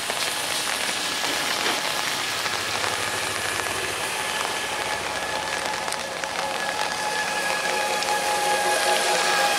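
Steady rain falling, with a passenger train's coaches running away along the track. From about halfway a steady whine at a few pitches joins in and grows slightly louder.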